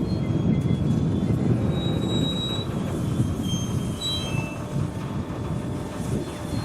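A train rolling past on the rails with a steady low rumble, which slowly fades toward the end. Several short, high-pitched wheel squeals come in the middle.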